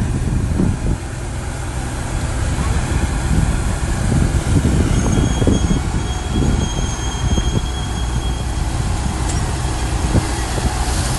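Crawler bulldozer working: its diesel engine runs steadily under load while the steel tracks clank, with a thin high squeal from the tracks from about five to eight seconds in.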